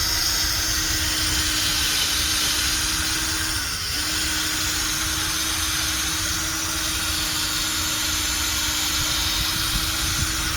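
Electric drill spinning an 800-grit sanding pad, wet-sanding a plastic headlight lens to remove the 500-grit scratches. The motor runs steadily, dipping briefly about four seconds in before picking back up.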